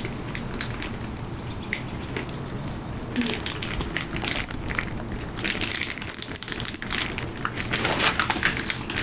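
Irregular rustling and crinkling with scattered small clicks, growing busier about three seconds in.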